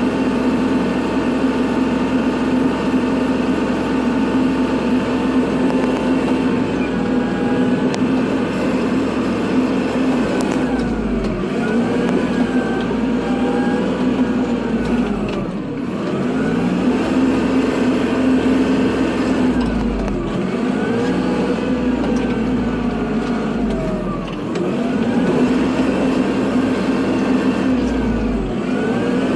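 Kubota tractor's diesel engine running steadily under load while plowing snow, its pitch dipping briefly and coming back up about every four to five seconds.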